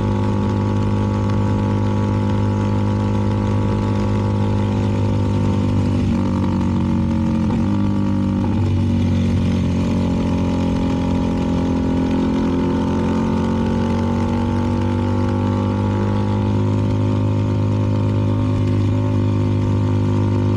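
CFMoto 300NK's single-cylinder engine running through an aftermarket KO exhaust, carrying two riders at a steady cruise. Its pitch dips and shifts between about seven and nine seconds in, then rises and falls gently.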